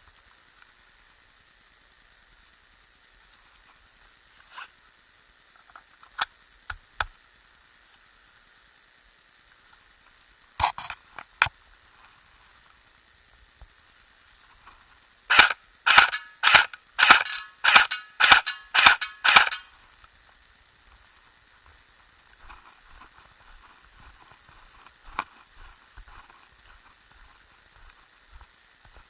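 EMG SGR-12 airsoft electric shotgun firing: a few scattered single shots, then a fast string of about a dozen shots over some four seconds, each a sharp crack.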